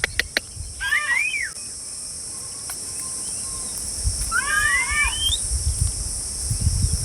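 A bird gives short arched calls about a second in, then a rising squeal with chattering notes around four to five seconds in. A steady high insect-like hiss and low rumble run underneath, and a few sharp clicks come at the very start.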